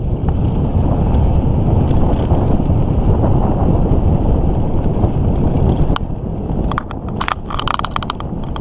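Wind rushing on the microphone and tyres rumbling as a mountain bike coasts downhill on a trail. From about six seconds in come a run of sharp clicks and rattles as the bike jolts over rough ground.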